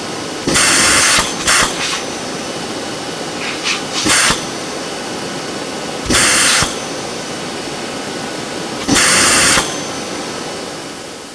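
Vacuum cleaner running steadily, with several short, louder hissing surges of air lasting up to about a second, then starting to die away near the end.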